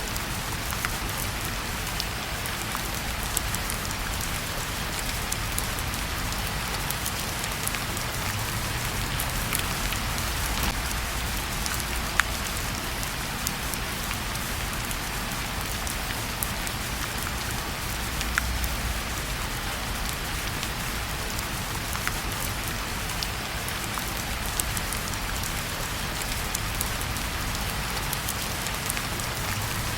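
Steady rain falling on a surface: a dense, even hiss with scattered sharp ticks of drops throughout, over a low rumble.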